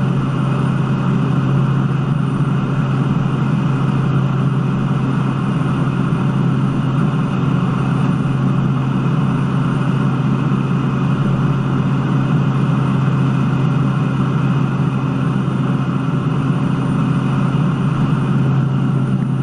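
A steady engine drone with a strong low hum and a hiss above it, unchanging in pitch and level throughout.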